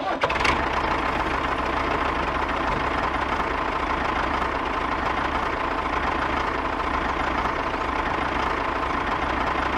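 A small engine or motor running steadily at an even speed, with a thin, steady whine on top.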